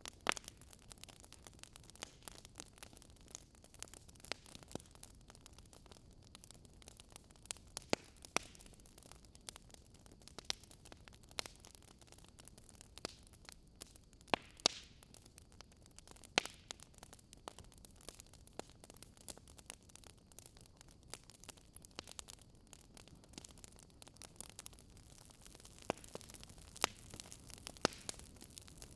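Fire crackling softly: irregular small pops and snaps over a faint steady hiss, with a few louder snaps in the middle.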